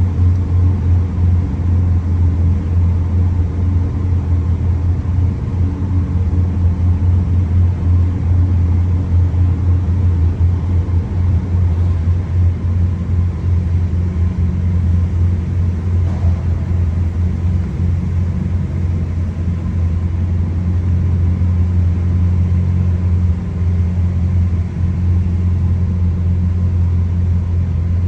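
A car engine idling with a steady low rumble and no revs.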